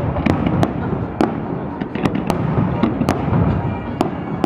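Fireworks display: sharp cracks from bursting shells at irregular intervals, about one or two a second, over a continuous low rumble of further bursts.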